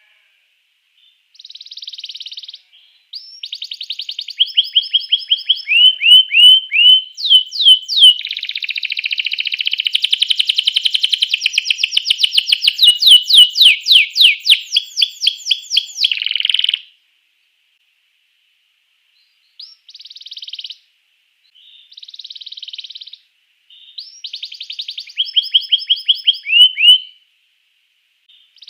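Domestic canary singing: a long phrase of fast trills and quickly repeated falling whistled notes lasting over ten seconds, a pause of a couple of seconds, then several shorter trilled phrases.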